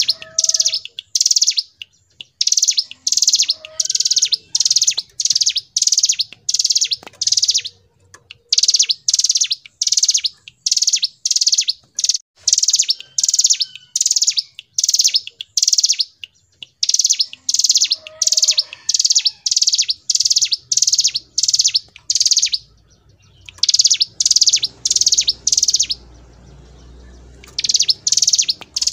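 Ciblek gunung (a mountain prinia) singing its high, rattling trill in short bursts, about two a second, with a couple of brief pauses near the end.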